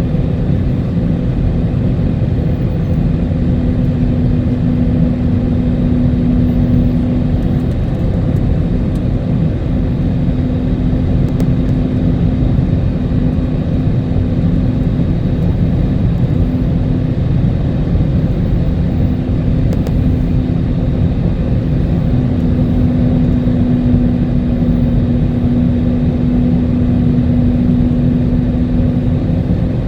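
Steady cabin noise inside an Airbus A320neo on final approach: a constant rumble of the engines and air rushing past the fuselage, with a steady low hum running through it.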